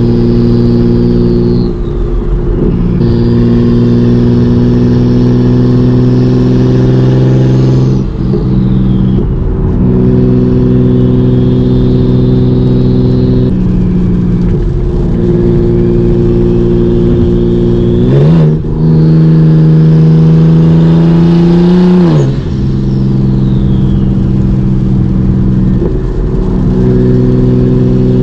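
A BMW 335i's 3.0-litre inline-six, converted to a single turbo with a hood-exit downpipe, droning steadily under way. Several times it briefly lifts or shifts, the engine note drops and a high turbo whistle falls away. About two-thirds through it climbs to a higher, louder note, holds it for a few seconds, then drops back.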